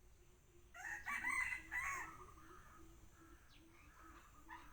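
One drawn-out animal call, about a second and a half long, starting just under a second in.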